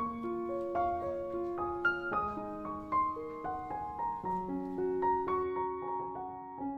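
Background piano music: a gentle melody of sustained notes with soft chords.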